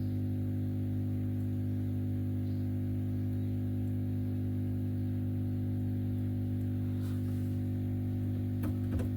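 Steady electrical mains hum with a stack of low overtones, holding an even level throughout, with a few faint clicks near the end.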